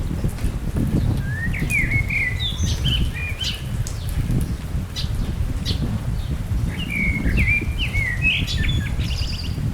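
A songbird singing two quick phrases of short, chirpy notes, one about a second in and another about seven seconds in, over a steady low rumble.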